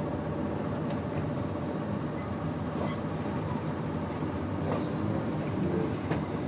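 Passenger train running slowly along the track: a steady rumble and hum, with a few faint clicks.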